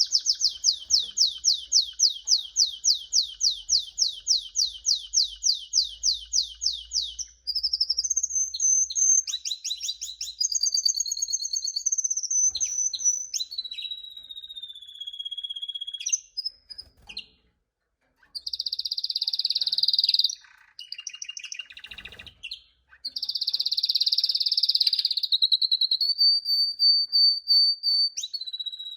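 Domestic canary singing: a long fast run of repeated notes for the first seven seconds, then changing phrases of trills and falling whistles, with two short pauses.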